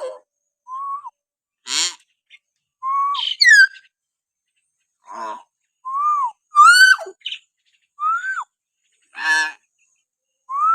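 Hill myna calling in a series of short, separate notes about a second apart: clear whistles that rise and fall, broken up by a few harsh, rasping calls.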